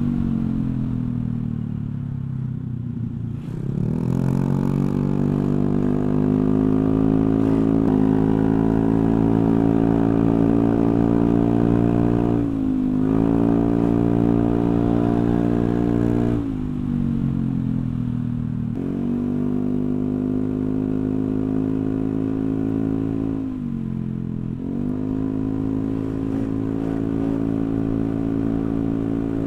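Honda Vario 125 scooter's single-cylinder engine running through a CLD C3 oval aftermarket racing exhaust with no dB killer fitted. It is revved up and held at high revs, the pitch sinking and climbing back again several times.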